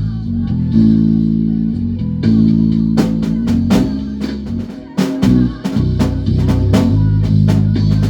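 Live band music led by an electric bass guitar holding low notes, with a drum kit coming in about three seconds in and keeping a steady beat of hits and cymbals.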